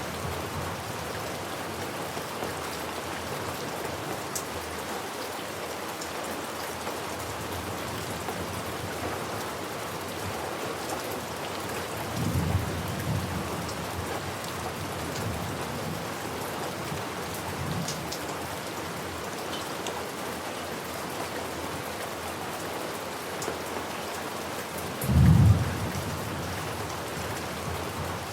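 Steady rain falling, with rolls of thunder: a low rumble about twelve seconds in and a louder, closer one near the end.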